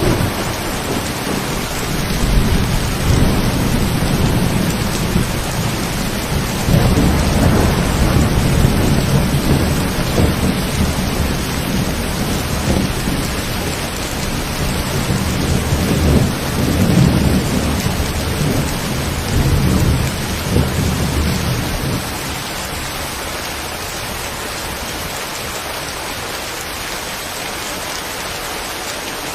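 Steady rain falling, with thunder rumbling low and long over it. The thunder swells a few times and dies away about 22 seconds in, leaving the rain alone.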